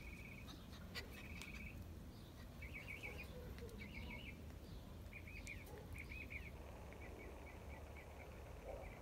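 A small bird calling faintly in short, rapid trills, repeated about once a second, over a low background hum.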